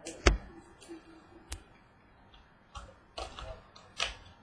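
Trading cards and packs being handled: a sharp click about a quarter second in, then several lighter clicks and taps, most of them near the end.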